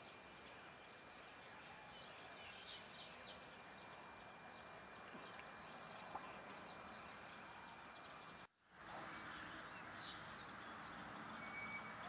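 Faint outdoor ambience with a few brief, high bird chirps, one about three seconds in and another near the end. The sound cuts out for a moment about two-thirds of the way through.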